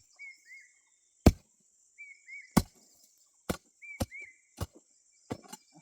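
Repeated chopping blows of a hand tool, about seven strikes at irregular spacing, the loudest about a second in. Between the blows a bird gives short paired chirps, over a steady high insect drone.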